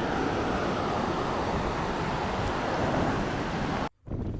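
Ocean surf washing steadily on a beach, mixed with wind on the microphone; it cuts off abruptly near the end.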